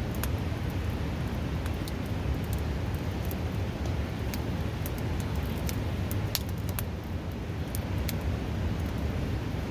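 Steady rushing of a river close by, the loudest sound, with the irregular sharp crackles and pops of a wood campfire over it.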